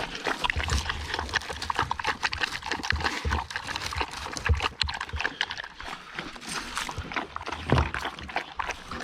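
Dogs moving and making noises up close, with many quick clicks and knocks throughout.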